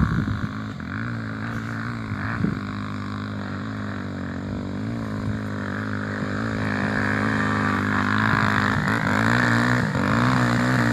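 Trail motorcycle engine revving under load as it climbs a steep hill, its pitch rising and falling with the throttle and getting louder in the second half. There are a couple of sharp knocks in the first few seconds.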